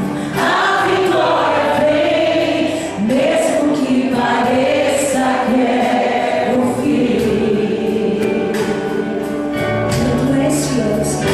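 A church choir singing a gospel worship song in Portuguese, several voices holding long, gliding notes together.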